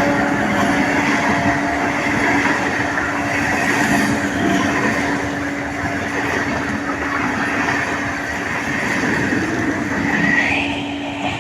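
A train passing close by at speed: dense rattling running noise with a steady hum, fading near the end as it goes by.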